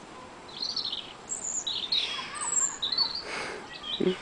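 Small birds chirping, many short high calls overlapping, with a brief low knock or voice sound near the end.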